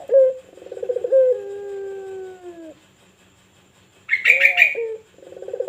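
Puter pelung dove (a Barbary dove) cooing. Each coo opens with a quick stuttering run and goes into a long, drawn-out note that drops at the end, and the coos come one after another. About four seconds in there is a brief burst of higher chirping.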